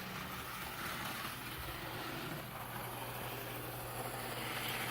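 Athearn N scale EMD F59PHI model diesel locomotive running on the track at about a third throttle: its small DC motor gives a steady low hum over a light even rolling noise.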